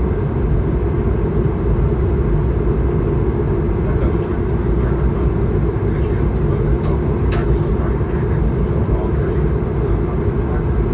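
Steady cabin noise of an Airbus A220-300 in flight, heard from inside the cabin: the deep, even rush of its Pratt & Whitney geared turbofans and the airflow, with a faint high whine and a few faint ticks.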